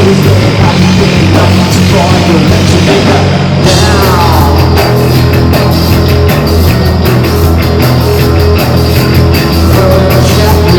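Live band playing loud rock music, with a steady low bass line under it. About three and a half seconds in, the top end drops out briefly, then comes back with evenly spaced hits.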